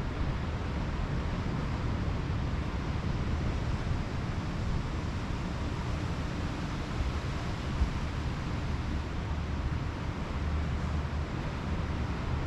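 Pacific Ocean surf washing steadily on the beach, with wind rumbling on the microphone; one brief louder spike about eight seconds in.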